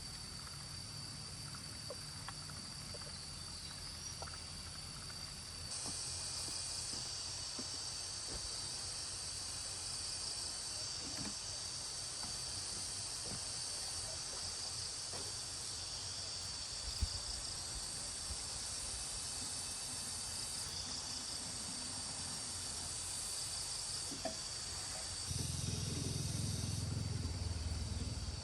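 Insects chirring in a steady high-pitched chorus with a faint pulsing texture, growing louder about six seconds in. A low hum runs underneath and gets louder near the end.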